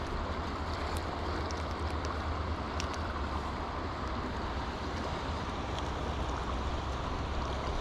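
Steady rush of water pouring through a small spillway, with a low rumble of wind on the microphone.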